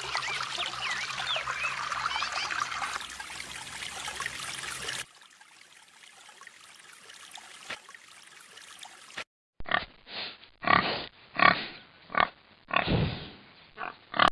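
A chorus of many small birds chirping, dropping to a faint hiss with a few chirps after about five seconds. From about ten seconds, a pig grunts in a run of about eight loud, short grunts.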